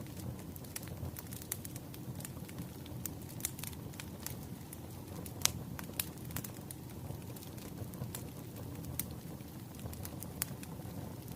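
Wood fire crackling, with irregular sharp pops and snaps over a low steady rush of burning logs; one louder pop comes about halfway through.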